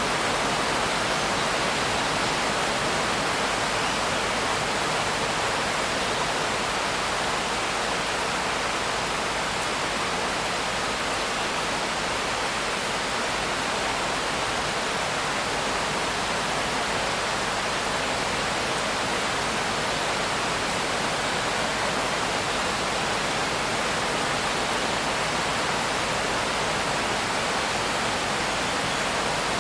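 Steady, heavy rain as a continuous, even hiss, with no separate drops or thunder standing out.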